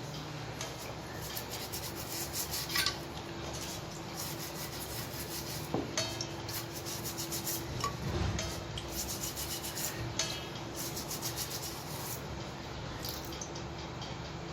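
Rapid runs of hand scrubbing or rubbing strokes on the sunken compass being cleaned, with a faint steady hum underneath.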